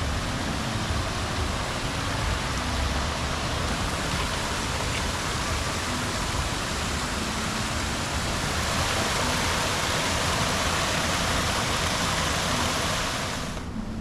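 Steady rushing noise of flowing water, swelling slightly in the second half and cutting off suddenly near the end.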